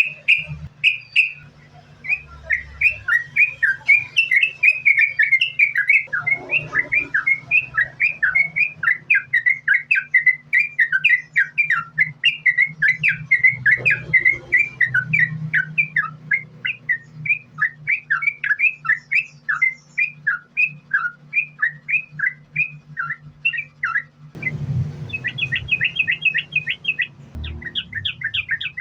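Yellow-vented bulbul (trucukan) singing a fast, unbroken string of short chirping notes, several a second, in the continuous 'sambung ropel' style, over a steady low hum. Near the end the song turns into quicker, higher trilled phrases.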